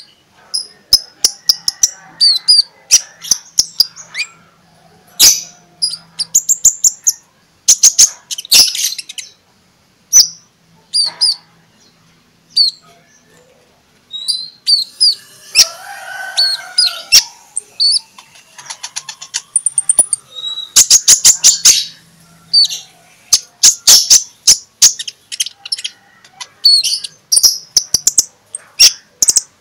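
Sunbird song: bursts of sharp, high-pitched chirps and rapid trills, separated by short pauses. A lower warbling call comes in briefly about halfway through.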